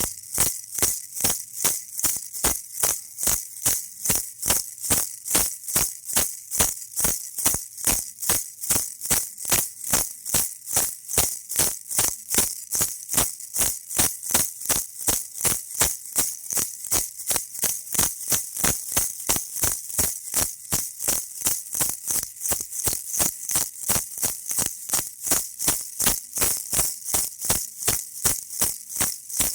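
Baby rattle shaken in a steady, even rhythm, about three shakes a second, each a sharp, bright rattle of beads.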